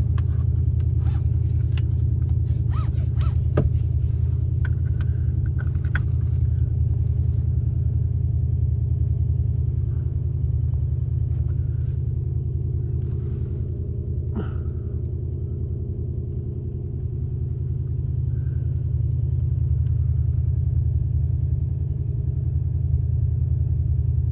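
2003 Toyota Tundra engine idling steadily shortly after a cold start, with a few light clicks over the first several seconds.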